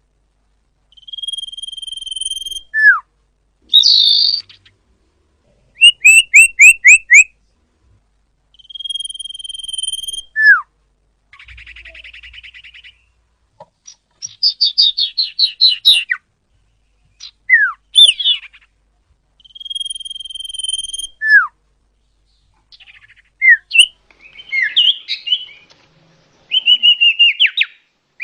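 Recorded lure call of a common iora: a long, steady, high whistle that ends in a short falling note, repeated about every six seconds. Between these whistles come fast runs of chirping trills, scratchy chatter and a buzzy rattle.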